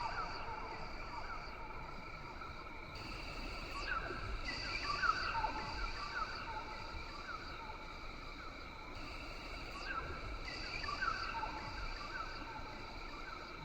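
Rainforest ambience: a steady chorus of insects droning at several high pitches, some switching on and off every second or two, with many short chirping calls scattered through it.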